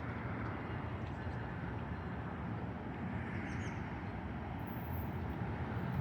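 Steady low rumble of a train at the station, with a few faint bird chirps about three seconds in.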